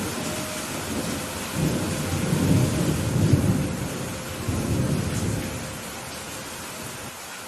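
Steady rain falling through a thunderstorm, with a long roll of thunder that swells about two seconds in and dies away after about six seconds.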